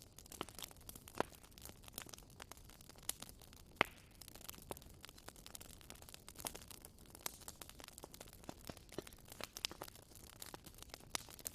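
Campfire crackling: irregular sharp snaps and pops of burning wood over a faint steady hiss, with louder pops about a second in and near four seconds.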